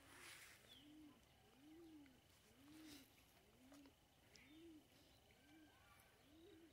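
A bird's low call, one rising-and-falling note repeated steadily about eight times, a little under a second apart, heard faintly.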